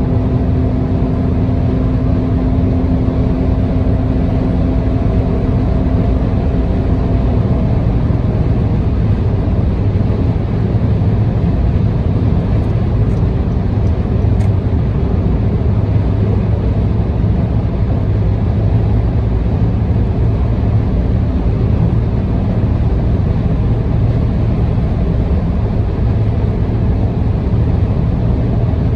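Car cruising on an expressway, heard from inside the cabin: a steady low rumble of road, tyre and engine noise. A faint steady hum runs over it and stops about seven seconds in.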